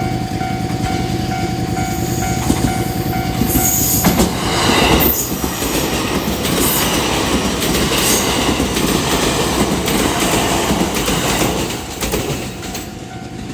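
Japanese level-crossing bell ringing in a steady repeating ding, then an electric commuter train runs over the crossing close by, its wheels clattering over the rail joints, loudest about four to five seconds in and fading away near the end.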